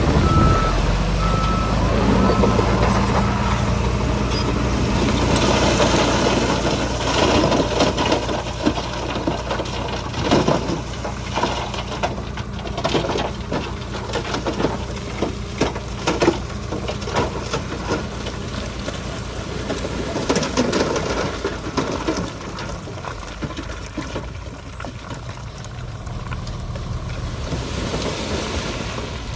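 Diesel engine of a Shantui bulldozer running steadily while it pushes soil, with irregular clanks and knocks throughout. A reversing alarm beeps a few times right at the start.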